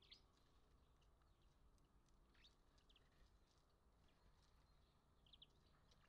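Faint small birds chirping: a few short, high calls scattered through, including a quick pair near the middle and a quick run of three near the end, over a low steady background rumble.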